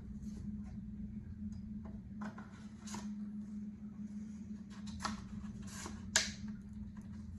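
Light clicks and knocks of paddle shaft sections being handled and fitted together, the sharpest about six seconds in, over a steady low hum.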